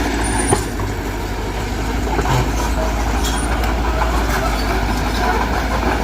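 Heavy diesel engine of earthmoving machinery running steadily with a deep drone, with one sharp knock about half a second in.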